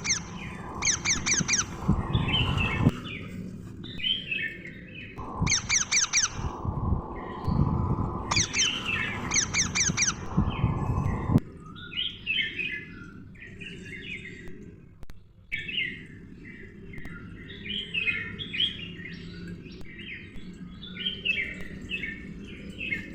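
Parrots chirping and squawking in quick repeated bursts. Over the first half there is a loud low rumbling noise, after which the chirping goes on steadily over quieter background.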